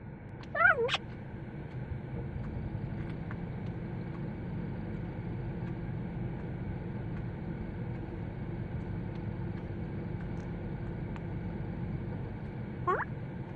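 African grey parrot giving a short rising whistle-like call about half a second in and another near the end, over a steady low hum.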